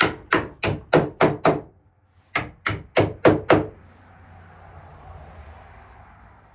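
Hammer blows in two quick runs of about three a second, six strikes and then five, followed by a faint steady hiss.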